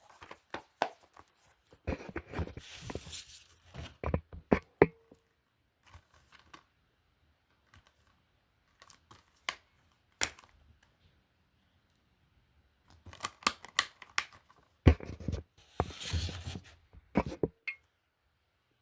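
Handling noise from plastic DVD cases being picked up and moved: sharp clicks, knocks and rustling in two bursts, the first about two seconds in and the second about thirteen seconds in, with near quiet between.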